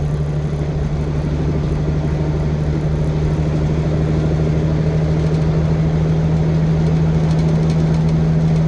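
Caterpillar 3406B diesel of a Freightliner FLD truck cruising at highway speed (about 65 mph), a steady, a little drony exhaust note that grows slightly louder towards the end.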